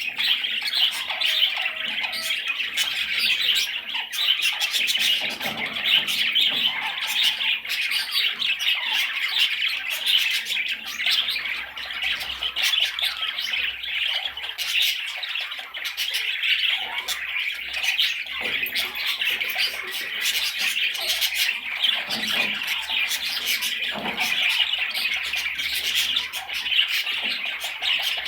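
Budgerigar chattering and warbling without a break, mixed with sharp squawks and clicks.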